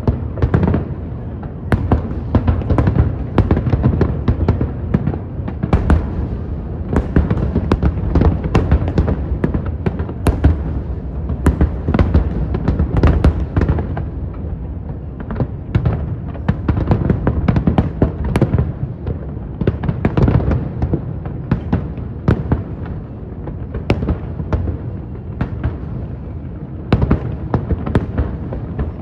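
Fireworks display: aerial shells bursting without a break, sharp cracks several times a second over a continuous deep rumble of booms.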